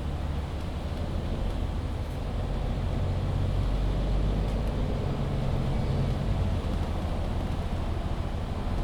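MAN Lion's City 19C EfficientHybrid articulated bus, with its six-cylinder diesel and Voith automatic gearbox, running under way, heard from on board. A steady low drone with road noise that grows slightly louder about two seconds in.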